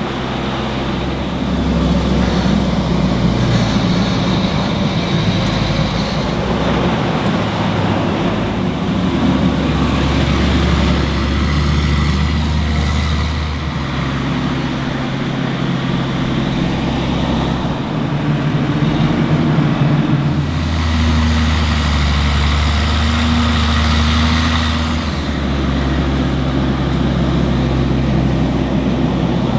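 Tractor and harvesting-machine diesel engines running at work. The low engine tone steps up and down every few seconds.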